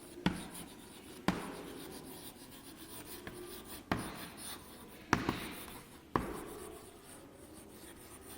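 Writing on a board: soft scratching strokes punctuated by five sharp taps as the writing tool strikes the board, spaced about one to two and a half seconds apart.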